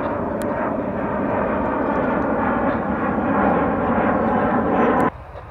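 Jet airliner taking off, its engines loud and steady, cutting off suddenly about five seconds in.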